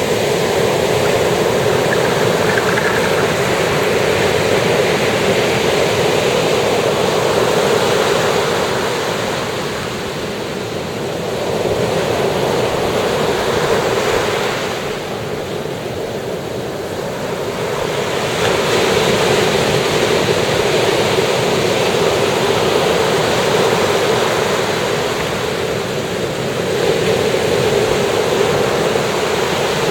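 Ocean surf breaking on a beach, a continuous wash of waves that swells and eases every several seconds.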